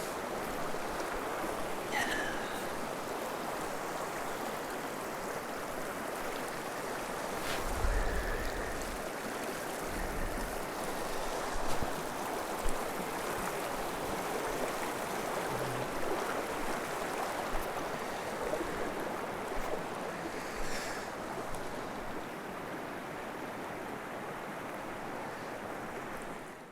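Shallow river rushing steadily over stones, with a few splashing thuds from feet wading through the water.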